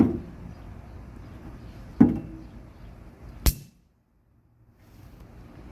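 Three sharp pops from small fireworks, about a second and a half to two seconds apart; the last is the shortest, sharpest crack.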